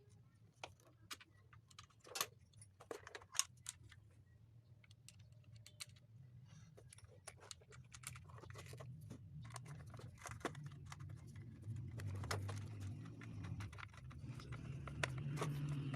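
Scattered small clicks and light metallic taps of hand tools and parts being handled while a small lithium battery is fitted into a motorcycle's battery compartment. A low hum builds in the background over the second half.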